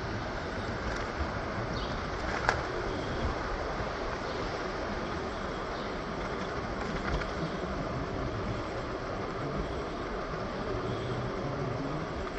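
Commuter train running along the rails: a steady rumble with one sharp clack about two and a half seconds in.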